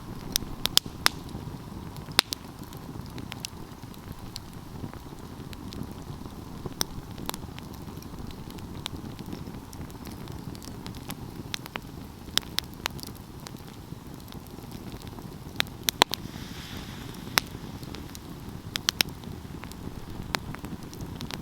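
Wood fire burning, with a steady low rumble of flame and irregular sharp crackles and pops from the burning wood.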